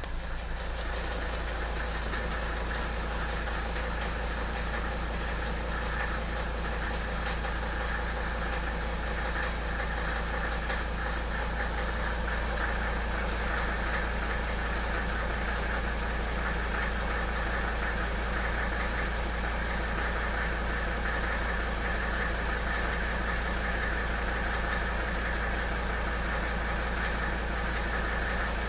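Mercedes 300SD's five-cylinder turbodiesel idling steadily just after start-up, with a fine, even clatter. The owner hears a subtle intermittent clicking from the engine after adjusting the valves, which fades once the engine warms up.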